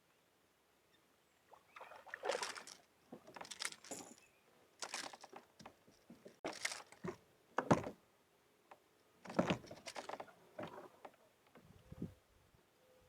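Irregular knocks, scrapes and rustles of gear being handled in a fishing kayak, with a sharp click about six and a half seconds in.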